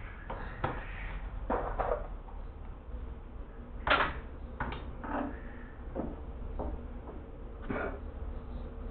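Irregular light knocks and clicks from building work, the loudest about four seconds in, over a steady low rumble.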